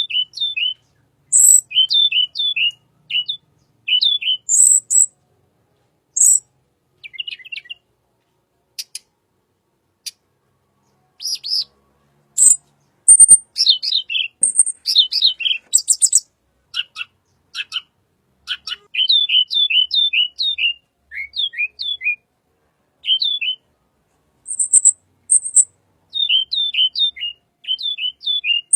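Tledekan bird singing: phrases of short, clear notes sliding downward, mixed with sharp very high chips and broken by brief pauses.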